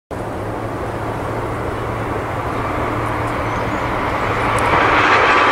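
Amtrak electric passenger train approaching, a steady rush of rail noise growing gradually louder, with a low steady hum under it until near the end.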